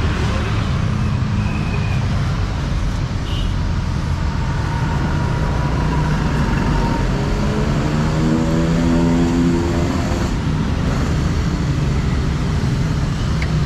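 Road traffic: vehicle engines rumbling steadily, with one engine growing louder from about six seconds in and fading again near ten seconds, like a vehicle passing close by.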